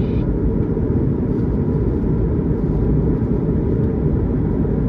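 Steady low rumble of an Airbus A220-300 heard from inside the cabin, with no change in level.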